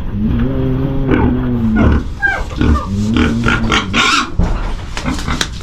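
Pigs calling: one long drawn-out call, then a few shorter ones, with a burst of rustling noise about four seconds in.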